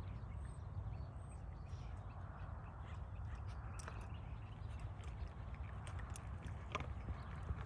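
Birds calling: a few short, high chirps in the first second or so and one louder call about seven seconds in, over a steady low rumble.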